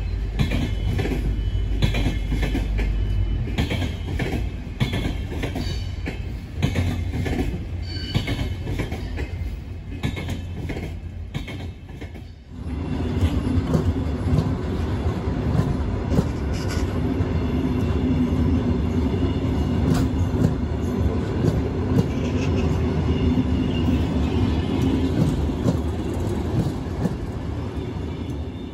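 Railway wagons rolling past on the track, wheels clicking over rail joints with some squealing. About halfway through the sound changes abruptly to a steadier rumble with a low hum as passenger coaches roll by.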